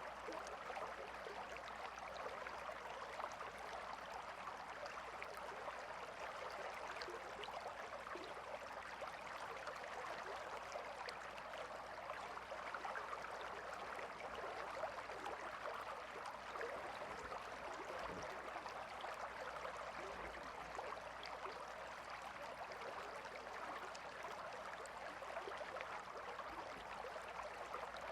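A calm river flowing steadily over rocks, an even rushing and babbling of water.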